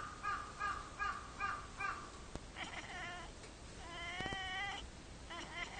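Animal calls: a quick run of about six short, falling calls, then a short call, then one longer wavering call about four seconds in, and another short call near the end.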